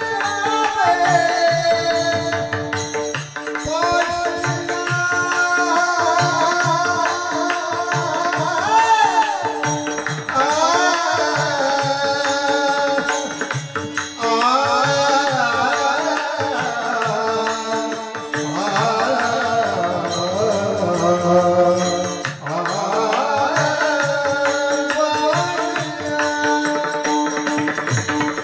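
A male singer holding long, high, ornamented notes in a Marathi devotional song, over a steady drone and a regular hand-drum beat with jingling percussion.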